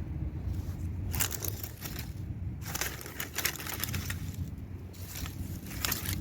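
Dry kindling crackling and popping as a freshly lit campfire catches, in three dense bursts of crackles. A steady low rumble runs underneath.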